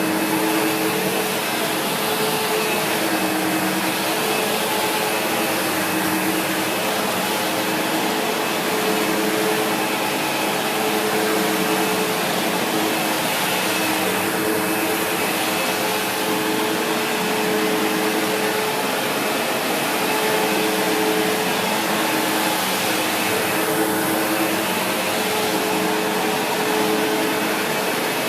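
SEBO X4 Extra upright vacuum cleaner running steadily while vacuuming carpet, a continuous motor whine whose tones fade and return as it is pushed back and forth.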